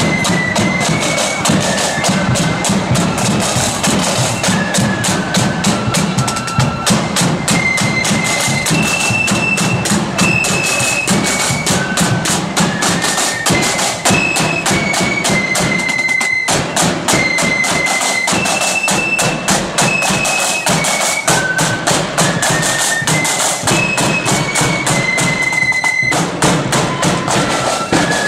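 Marching band playing a tune: a single high-pitched melody line of held and stepping notes over rapid, dense snare-style drumming and a steady low drum.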